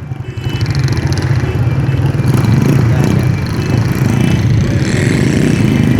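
Motor vehicle engines running, a steady low rumble with road and traffic noise.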